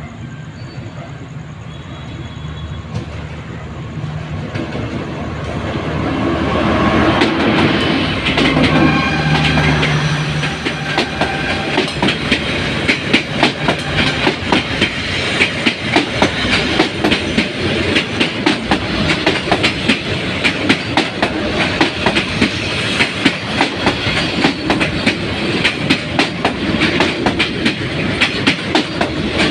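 Diesel locomotive drawing a passenger train past, its engine growing louder over the first ten seconds. The carriages then roll by with a steady rapid clatter of wheels over rail joints.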